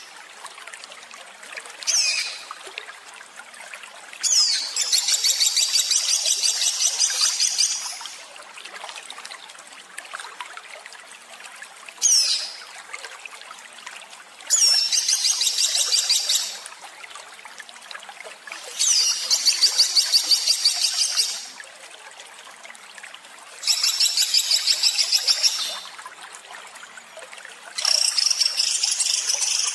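A small songbird singing harsh, rapid-fire trills ("tembakan kasar"): five bouts of fast, evenly repeated high notes, each lasting two to four seconds, with quiet gaps between. Twice a single short downward-sweeping call comes before a bout.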